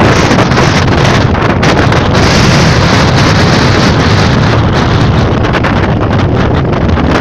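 Strong sandstorm wind buffeting the microphone: a loud, continuous rushing rumble with no let-up.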